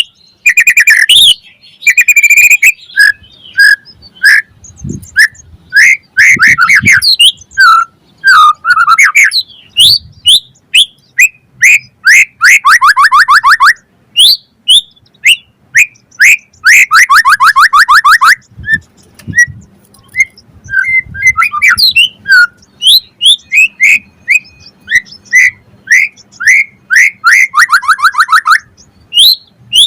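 White-rumped shama singing loud, varied phrases of clear whistled notes, broken by several fast trills of rapidly repeated notes.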